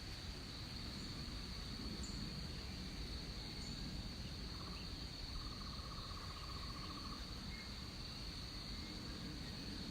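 Rainforest insects trilling: one steady high-pitched trill runs on unbroken. A lower, finely pulsing trill comes in about halfway through and lasts some two and a half seconds, over a low background rumble and a few faint chirps.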